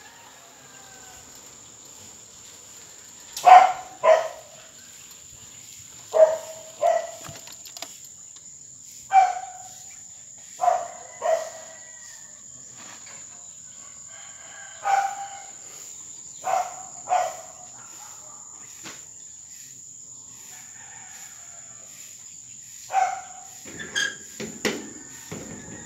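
A bird calling in short notes, mostly in pairs, repeated every couple of seconds, over a steady high-pitched insect drone.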